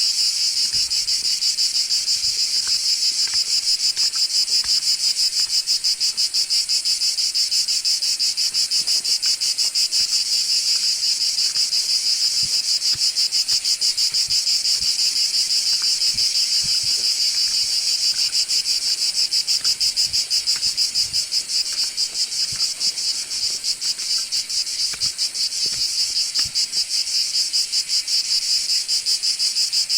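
Cicadas singing in a loud, steady chorus: a high buzz with a fast, even pulsing that never breaks.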